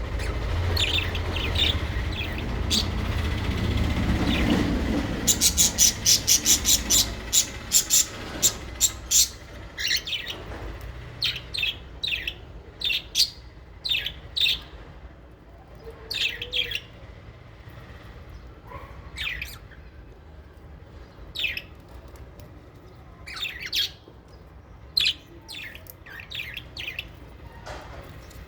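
Small parrots (lovebirds and budgies) giving short, sharp, shrill chirps, with a rapid run of calls about five seconds in and then scattered single chirps. A low rumble sits underneath for the first several seconds and then fades.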